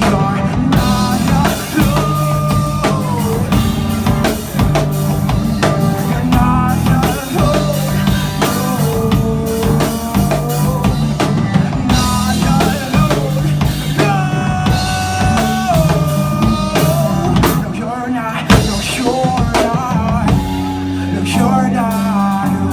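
Rock band playing an instrumental break live: drum kit and bass keep a steady beat under a lead guitar line with bending, sliding notes.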